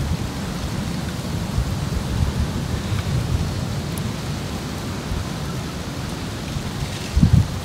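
Wind buffeting the microphone: a steady, loud low rumble with a stronger gust near the end, the noisy recording that the uploader says is too loud to listen to.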